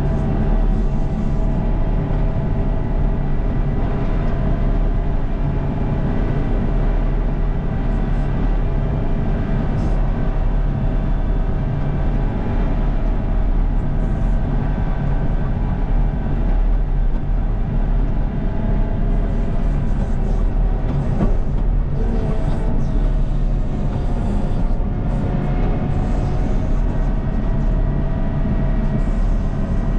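Diesel engine of a CAT 926M wheel loader running steadily under work, a constant drone with a slight change in pitch about two-thirds of the way through.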